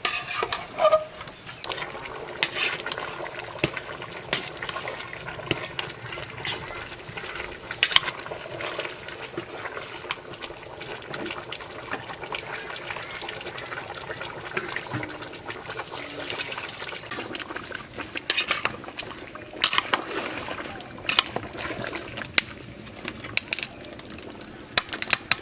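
Water sloshing and splashing as it is handled, with scattered clinks and knocks of pots and utensils.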